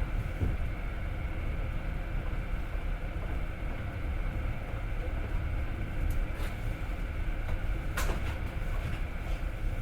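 Passenger train running on the rails, heard from inside the carriage: a steady low rumble of wheels on track with a few light clicks and one sharper click about eight seconds in.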